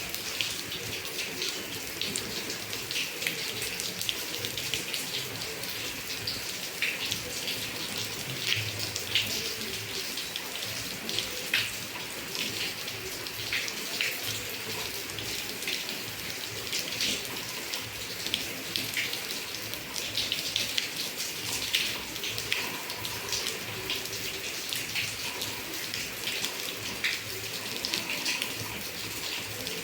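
Steady rain falling, a constant hiss with many sharp drops and drips hitting close by.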